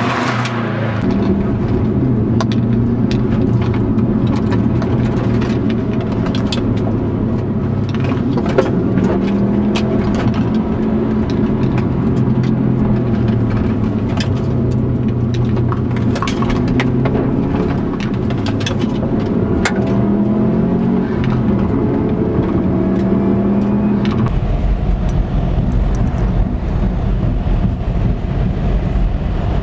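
Subaru WRX's turbocharged flat-four engine revving up and falling back through gear changes on a gravel road, with many sharp clicks of gravel hitting the underside, heard from inside the car. About 24 seconds in it gives way to a steady, loud rush of wind and road noise at high speed.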